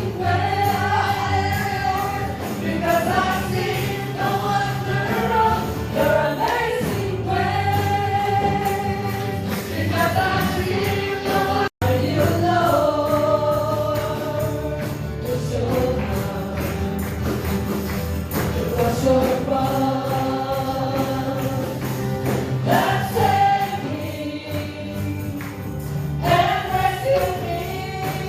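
A choir singing a gospel worship song with band accompaniment and tambourine. The sound cuts out for an instant about twelve seconds in.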